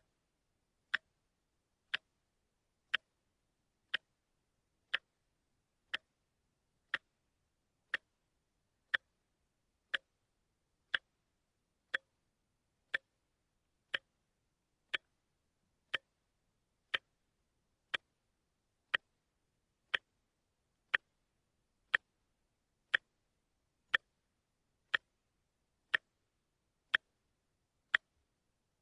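A watch ticking, one sharp tick a second, evenly spaced.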